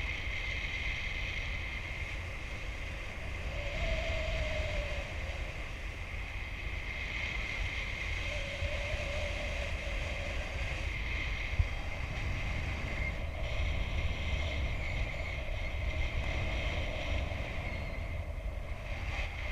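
Wind rushing over the microphone of a flying paraglider: a steady low buffeting rumble with a constant high whistle running through it.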